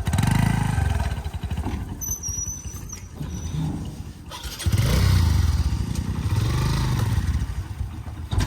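Motorcycle engine revving, in one burst at the start and a longer one from about halfway, rising and falling in pitch, with a brief high squeal about two seconds in.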